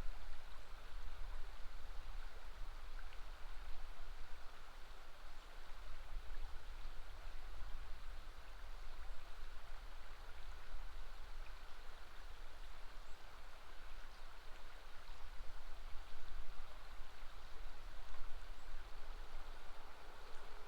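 River water flowing steadily over a bend, an even rushing with a deep rumble underneath.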